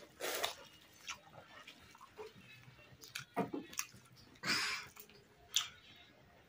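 Close-up eating sounds: a person chewing pork and rice, with wet mouth clicks and smacks and a few louder noisy bursts scattered through.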